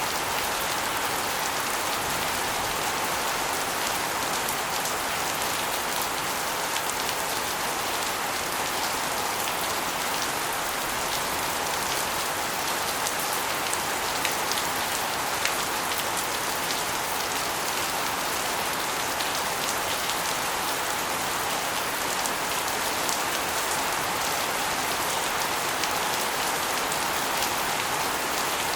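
Steady rain with water spilling off an asbestos roof and splashing onto a concrete floor and walls, with scattered drips and patters over an even rush of water.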